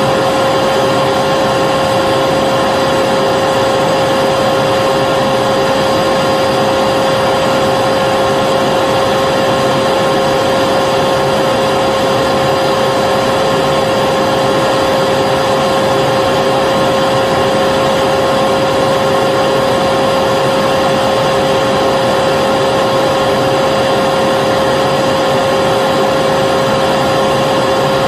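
Vacuum cleaner running steadily, a constant rushing noise with a high motor whine.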